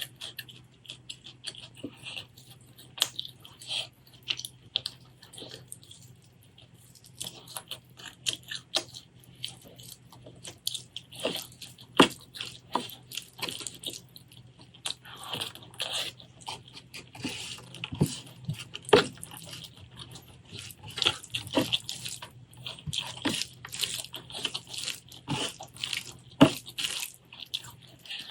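Close-miked wet chewing and mouth sounds of someone eating: irregular smacks and clicks throughout, over a faint low hum.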